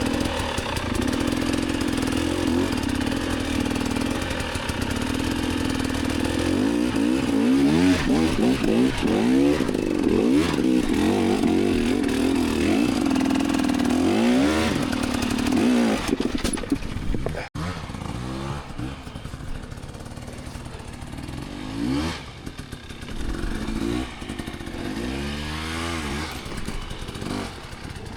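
Enduro dirt bike engine held at steady revs, then revved hard with the pitch rising and falling repeatedly as the bike attacks a steep, slick hill climb. After a sudden break about 17 seconds in come quieter, shorter bursts of revving.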